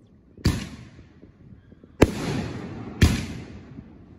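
Aerial fireworks bursting: three sharp bangs, about half a second in, at two seconds and at three seconds, each trailing off in a rumbling echo.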